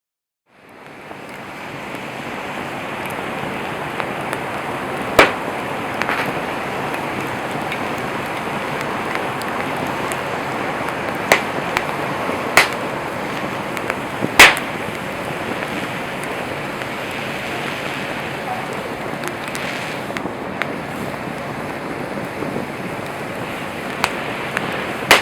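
Wood campfire burning: a steady hiss of flames with sharp pops of cracking wood, about five loud ones, the loudest some 14 seconds in. The sound fades in at the very start.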